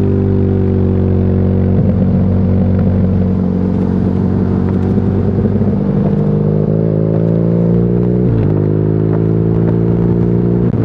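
BMW R nineT's air-cooled boxer twin running through an Akrapovic exhaust while the bike is ridden. The engine note holds fairly steady, then climbs gradually, dips sharply about eight seconds in and picks up again, with short breaks near two seconds and at the very end, as with gear changes.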